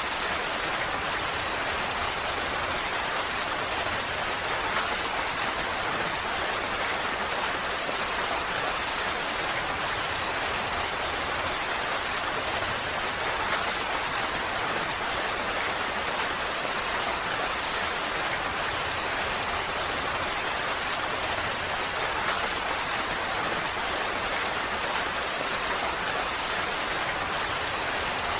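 Steady rain falling, an even hiss that never lets up, with a few faint ticks here and there.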